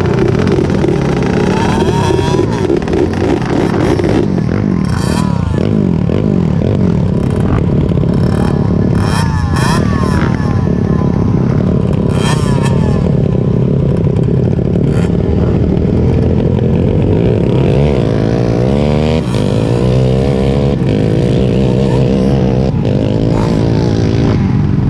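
Off-road engines running loudly and revving, the pitch rising and falling several times, with some clatter.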